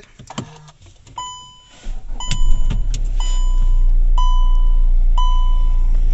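Hyundai Creta's 1.6-litre four-cylinder turbo-diesel engine started by push button: it cranks for about a second, catches, and settles into a steady idle. A dashboard warning chime dings about once a second from about a second in.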